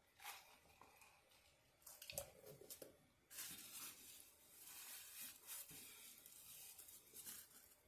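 Quiet eating and food-handling noises, with a few short crackles and clicks at first, then a longer stretch of wet, crackly chewing or handling of the wings and fries.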